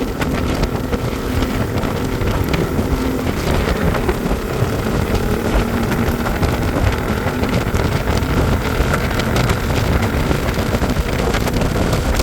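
A motor vehicle driving along, its engine and road noise running steadily under wind buffeting on the microphone.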